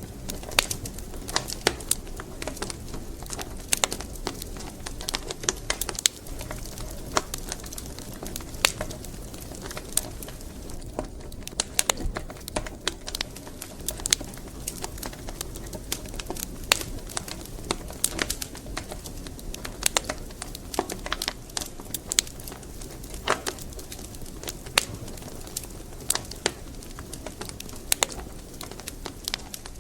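Wood fire crackling in a fireplace: irregular sharp pops and snaps, several a second at times, over a steady low rumble of burning.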